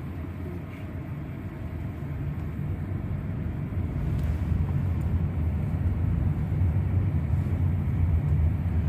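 Steady low road and engine rumble of a moving car heard from inside the cabin, slowly growing louder.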